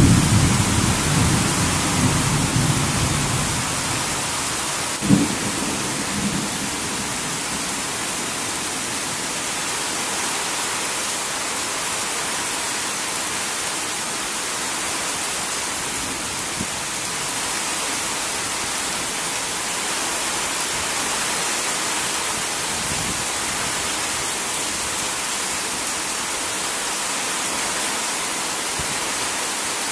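Heavy rain falling steadily as an even hiss, with a low thunder rumble at the start that fades over a few seconds. One short sharp thump about five seconds in.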